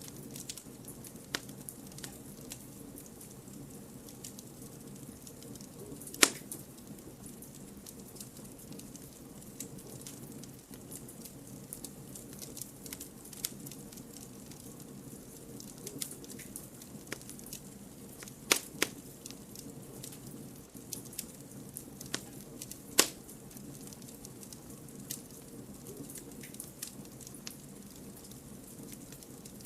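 Campfire of burning firewood, crackling with scattered sharp pops over a low steady hiss; the loudest pops come about six seconds in, twice close together around eighteen seconds, and at about twenty-three seconds.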